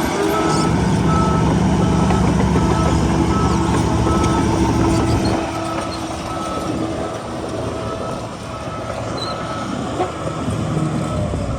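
A heavy earthmoving machine's reversing alarm beeps steadily at about two beeps a second over its diesel engine. The engine is loud at first and eases off about halfway through.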